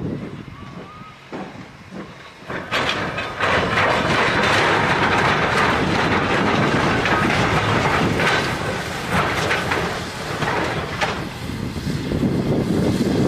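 A train passing close by: the rumble of its wheels on the rails with a rapid clatter of clicks. It becomes loud about three seconds in and stays loud.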